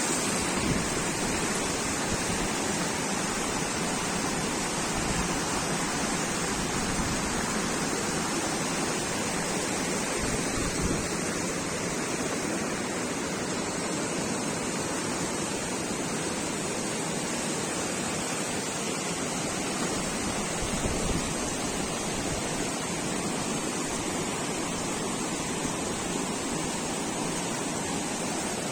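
Fast-flowing river water rushing steadily, an even loud roar with no breaks.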